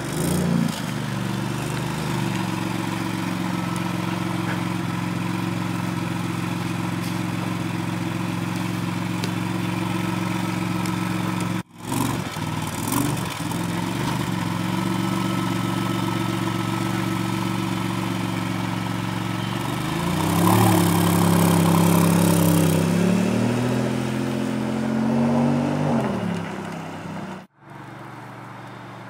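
Maserati MC20 Cielo's 3.0-litre twin-turbo Nettuno V6 idling steadily, heard at the exhaust. About two-thirds of the way through it is revved lightly twice, the pitch rising and falling each time, and it is quieter near the end.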